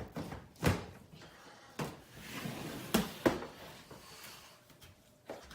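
A few sharp knocks and clunks, four in about three seconds, with a softer rustling noise around the middle.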